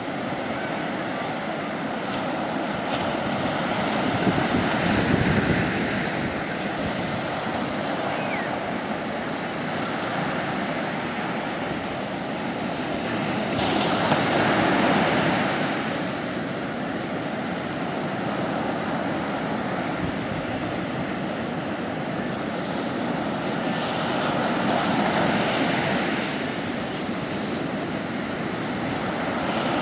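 Sea waves washing onto a beach, a steady surf that swells louder three times, about every ten seconds.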